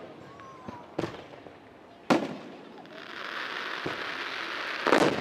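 Aerial firework shells bursting: separate booms about a second in and two seconds in. From about three seconds in, a steady crackle of fizzing stars fills in, and a quick string of bangs comes near the end.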